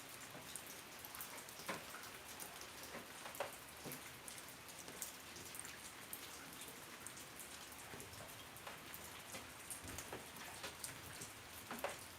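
Steady rain with many individual drops striking a hard surface, some heavier drops standing out as sharp taps.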